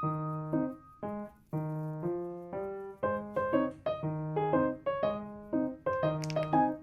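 Background piano music: gentle, struck notes and chords in an even rhythm. A short high clink sounds about six seconds in.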